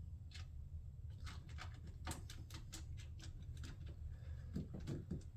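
Scattered light clicks and taps of plastic trim and small screw-and-washer hardware being handled and fitted by hand, with a few duller knocks near the end, over a steady low hum.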